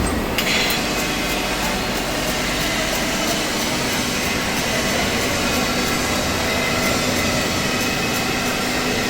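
Steady machine noise in a workshop: an even mechanical hum and hiss at a constant level, with one knock right at the start.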